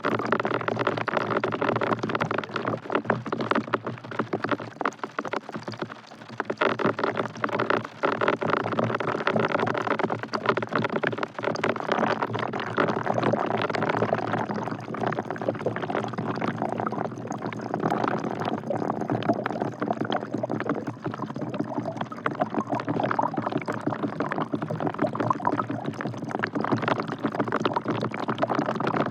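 Rain falling into a bucket: a dense, steady patter of drops splashing.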